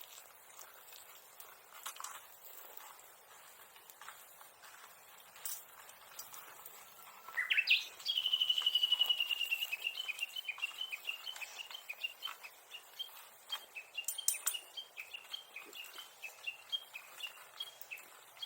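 Japanese bush warbler singing: a low note that sweeps quickly upward about seven seconds in, then a long run of rapid repeated high notes lasting about ten seconds.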